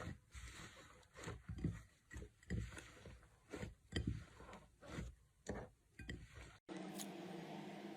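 Slime being squeezed and handled: faint, soft squelching pops, one or two a second, each with a low, wet body. About two-thirds of the way in, the sound cuts off suddenly and gives way to a faint steady hum.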